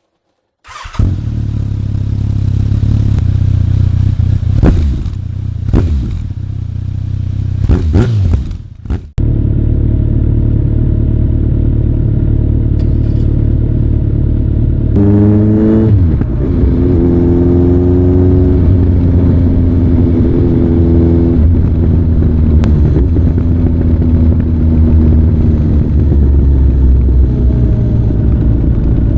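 Kawasaki ZRX1200DAEG's inline-four through a Nojima aftermarket exhaust. It comes in about a second in, idling with several sharp throttle blips. From about nine seconds in it runs steadily, then revs rise and step down as it accelerates.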